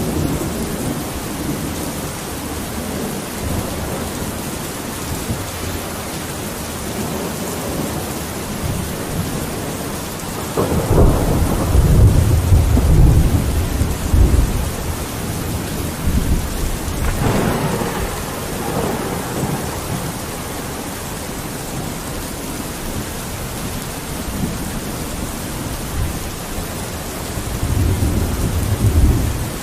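Steady rain falling on a window, with low rolling thunder that swells and fades three times, the longest and loudest about ten seconds in.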